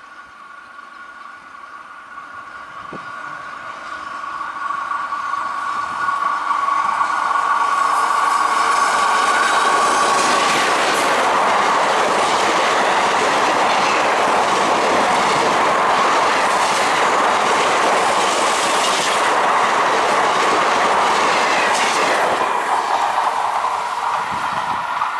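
Express passenger train hauled by an electric locomotive passing at speed: a steady high whine grows louder as it approaches, then a loud rush with wheels clattering over the rail joints as the coaches go by, fading as the train moves away near the end.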